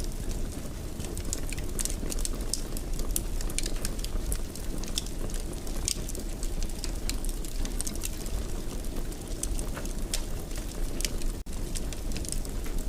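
Wood fire in a fireplace crackling, with frequent small sharp pops over a steady low rush of burning.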